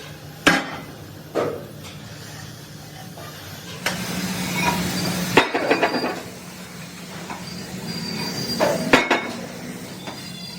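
Hammer blows and metal clanks on steel plate, some strikes ringing on briefly, over a steady low machine hum. Two sharp strikes come early, a busier stretch of clinking and rattling runs from about four to six seconds in, and another loud strike comes near the end.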